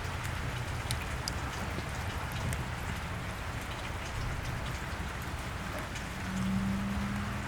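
Steady rain falling on a wet street, with scattered close drops over a low rumble. A low steady hum comes in about six seconds in.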